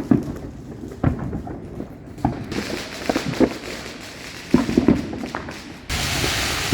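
Fireworks and firecrackers popping in a string of separate sharp bangs, several in quick succession about two-thirds of the way through. About a second before the end a steady rushing noise starts suddenly.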